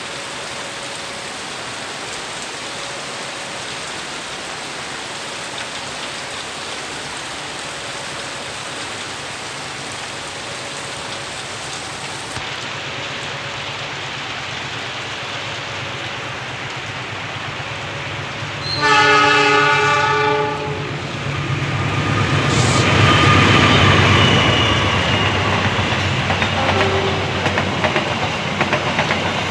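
Steady rain, with a faint tone repeating about every two seconds. About two-thirds of the way in, a diesel locomotive's horn sounds once for over a second, then the train passes with a rising rumble and wheel clatter that stays loud to the end.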